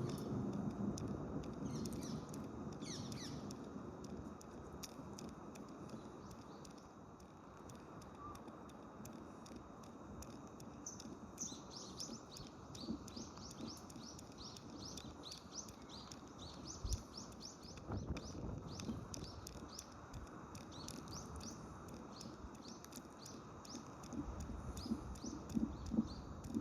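Birds chirping: many short, high, falling chirps, a few at first and then a quick, dense run from about halfway through, over a steady low rumble. A few soft thumps near the end.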